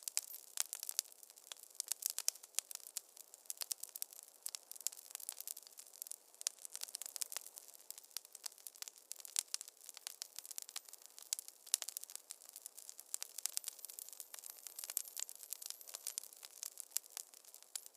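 Wood fire crackling in a fireplace: a dense, irregular run of sharp pops and snaps over a faint hiss, with almost no low rumble.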